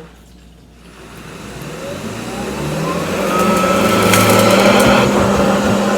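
Hoover ONEPWR cordless vacuum switched on at its low setting, its motor spinning up with a rising whine over about two seconds and then running steadily. A few sharp ticks come about four to five seconds in as it works the rug.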